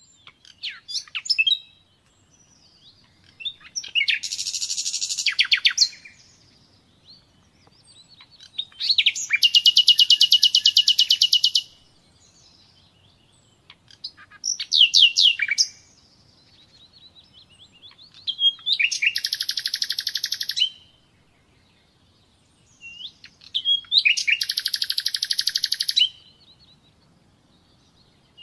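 Common nightingale singing: a run of varied phrases, several of them fast rapid-fire trills of repeated notes lasting two to three seconds, separated by short pauses and quick whistled sweeps.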